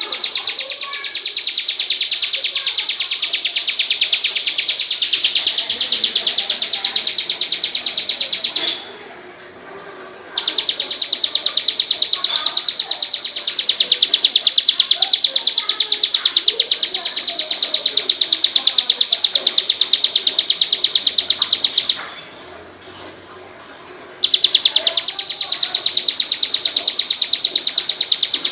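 Recorded bird song from a masteran track: a fast, even, high-pitched trill of rapid chips, breaking off twice for a second or two.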